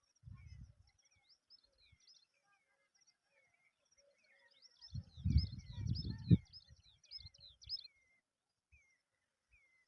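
Birds chirping, with many short quick high notes that come thickest in the middle. A low rumbling noise, the loudest sound, comes briefly near the start and again for about a second and a half in the middle.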